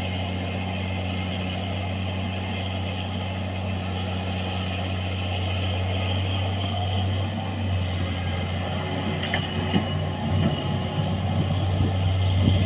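Excavator diesel engine running steadily with a low, even hum, with a few short knocks and rattles from the machine in the last few seconds.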